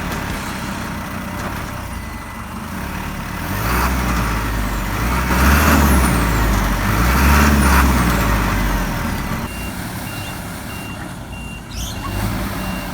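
Bogged truck's engine revving up twice under load as it tries to reverse, then settling back. Its reversing beeper then starts, a steady series of high beeps about two a second.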